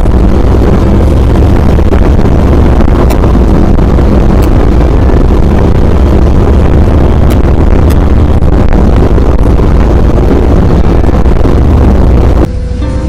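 Harley-Davidson V-twin motorcycle running at road speed, its low engine note under heavy wind rush on the microphone. Near the end the sound drops suddenly to a quieter, steadier engine note.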